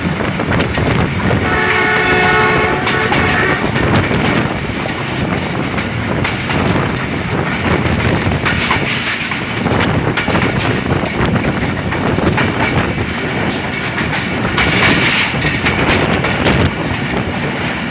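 Passenger train running with steady rumble and wheel clatter. About a second and a half in, the ZCU-20 diesel locomotive's horn sounds one steady note for about two seconds.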